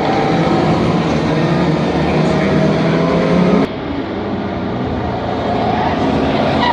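Historic pre-1966 racing cars' engines at high revs, the engine note climbing slightly. About three and a half seconds in, the sound cuts off abruptly to a slightly quieter, rougher engine sound that builds again near the end.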